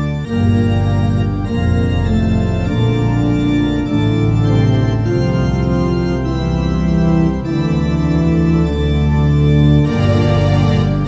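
Instrumental organ music from a recorded pop song: sustained organ chords changing about once a second, with no singing.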